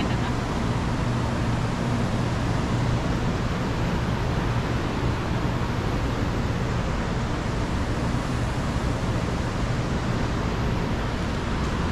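Steady, unbroken rush of a river pouring over a waterfall.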